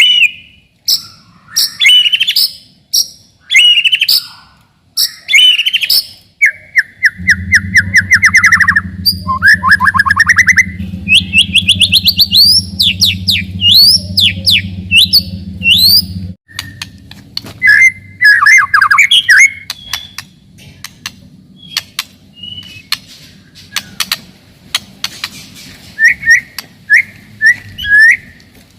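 White-rumped shama (murai batu) singing loudly: rapid runs of sharp chirps, fast trills and rising and falling whistled phrases, one after another without a break.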